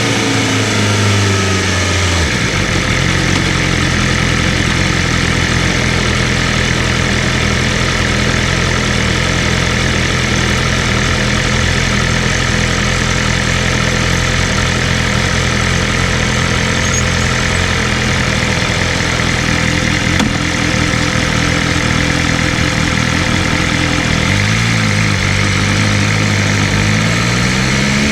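BMW M1000RR superbike's inline-four engine dropping in revs, then idling at a steady low note for about twenty seconds. There is a quick throttle blip near the end before the revs climb as it pulls away.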